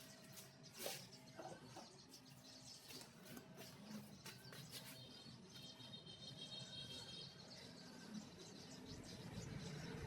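Near silence, with faint scattered small clicks and faint high bird chirping.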